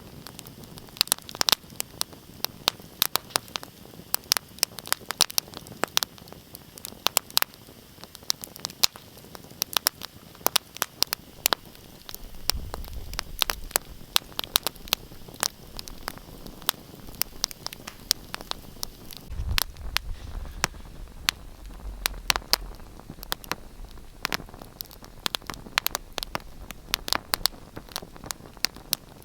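Wood fire in a fireplace crackling and popping, with many sharp, irregular snaps over a steady hiss. A low rumble rises twice, about twelve seconds in and again near twenty seconds.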